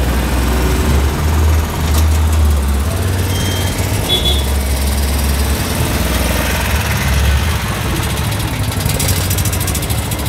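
BMW Isetta bubble car's single-cylinder engine running as the car drives slowly past, a steady low rumble.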